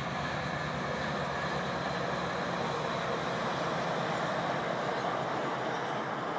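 Metrolink diesel commuter train passing: a steady rushing noise of the train rolling along the rails.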